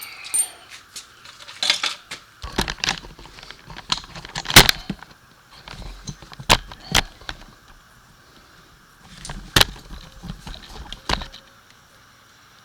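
Hand tools and loose metal hardware clinking and knocking in scattered sharp strikes with short quiet gaps, the loudest knock about halfway through.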